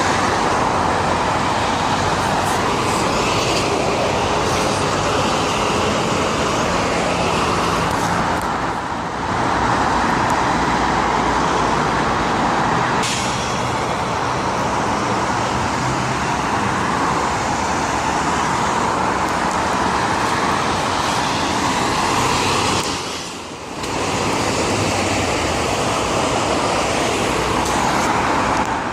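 Steady road traffic passing: a continuous hiss of tyres and engines, with two brief lulls, about a third of the way in and about four-fifths of the way through.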